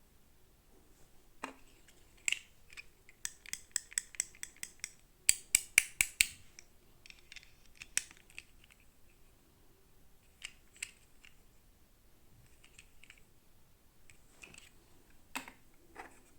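Toy packaging being handled and opened: a run of quick, sharp plastic clicks and snips, loudest a little past the middle, then scattered single clicks.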